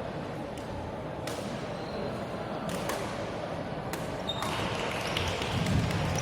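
Badminton rally: sharp cracks of rackets striking the shuttlecock, about every second and a half, over the steady murmur of a sports hall. A short high squeak a little after four seconds in.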